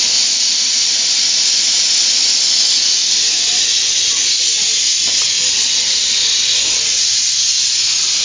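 Steam escaping from a Quarry Hunslet steam locomotive in a loud, steady hiss.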